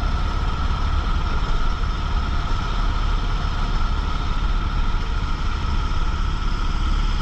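Rental go-kart engine running steadily at low, unchanging revs, a low rumble under a steady whine.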